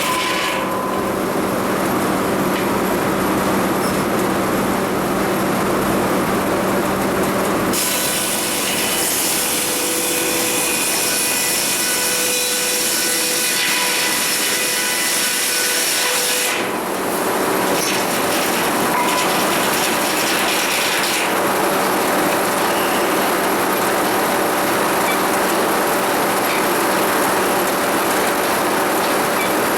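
Sawmill running while a cedar log is sawn: continuous machinery noise over a steady low hum. The sound turns brighter and harsher from about eight seconds in until about sixteen seconds, then settles back.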